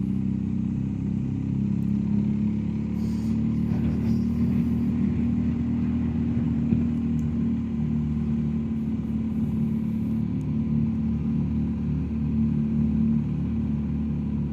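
BMW R1250GSA's boxer-twin engine running at a steady, low road speed, its note holding even with no gear changes or revving.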